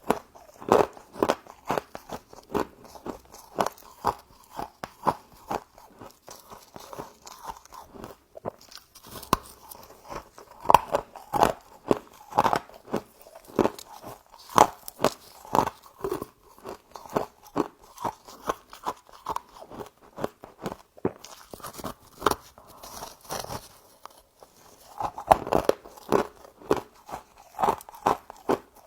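Close-up crunching and chewing of humidifier frost: rapid, irregular crisp crunches, several a second, with short pauses between bites.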